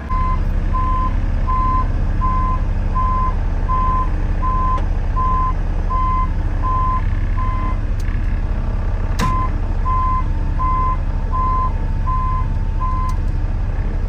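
Caterpillar 914 wheel loader reversing: its engine runs steadily while the backup alarm beeps about once every three-quarters of a second. The beeps pause briefly, and there is a single sharp clank about nine seconds in.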